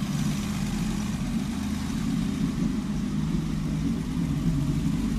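Unimog 404's petrol straight-six engine, fed by two Solex carburettors, running steadily just after starting. It runs loud because the muffler has been blown apart.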